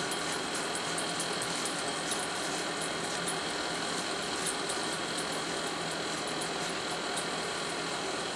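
Electric forge blower running steadily, a constant fan noise with a faint hum, with faint scattered ticks over it.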